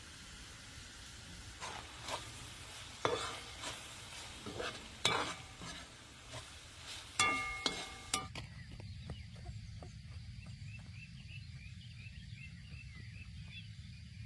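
A metal utensil knocking, scraping and clinking against a cooking pan a dozen times over a light sizzle, one clink ringing like metal. After about eight seconds the sound cuts abruptly to outdoor ambience: a low steady rumble with faint, evenly repeated chirping.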